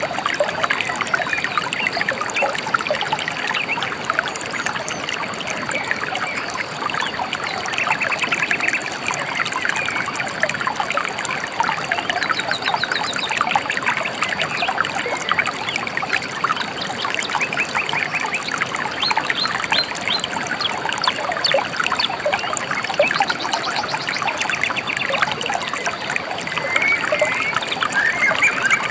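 Shallow river water trickling and babbling steadily, with birds chirping in short rapid trills now and then.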